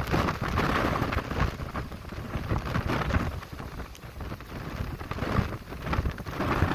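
Strong gusting wind with rain, the wind buffeting the microphone. It comes in surges: a loud gust at the start, easing in the middle, then swelling again near the end.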